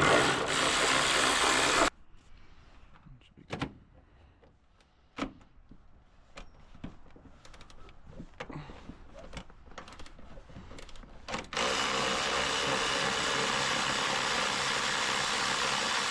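A power tool runs in two long stretches: about two seconds at the start, and about five seconds near the end. In between come scattered clicks and knocks of tools on metal, typical of undoing a car's seat bolts.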